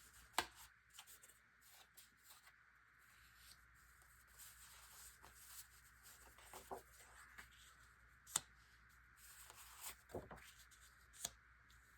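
Sheets of scrapbook paper and cardstock being handled on a table: faint rustling and sliding, with three sharp taps, one just after the start, one about two-thirds through and one near the end.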